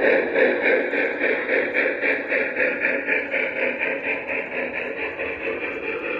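O-scale model train running on the layout, its sound making an even rhythmic pulsing about five beats a second that fades slightly toward the end.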